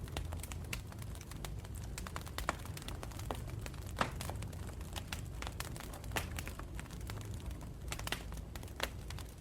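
Campfire of burning wood crackling: irregular sharp pops and snaps over a low, steady rumble of the flames, with a couple of louder pops about two and a half and four seconds in.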